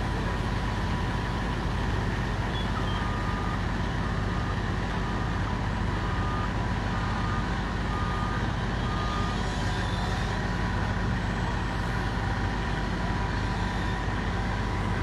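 Large diesel truck engine running steadily. From about three seconds in to about ten seconds in, a vehicle's reversing alarm beeps in an even series.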